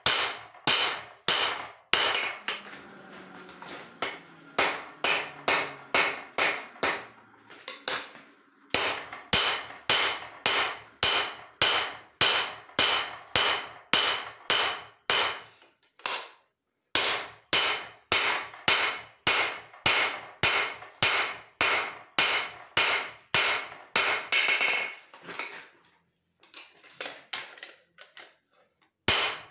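Hand hammer striking steel on an anvil in a steady run of blows, about two to three a second, with a few short pauses. Faint ringing lingers between the blows early on.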